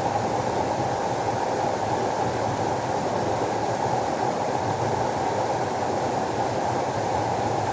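Flowing water rushing steadily, an even noise without change.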